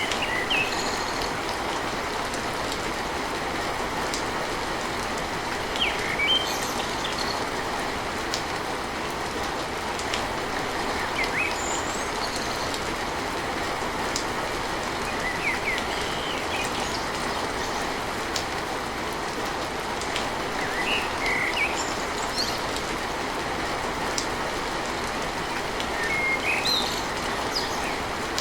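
Steady heavy rain drumming on a tin roof, an even rushing patter, with short high chirps breaking through every few seconds.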